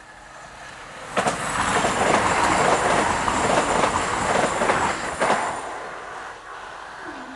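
Class 220 Voyager diesel multiple unit passing at speed. A loud rush of wheels on rail and air starts suddenly about a second in, with a faint high whine on top. It cuts back after about four seconds and then fades.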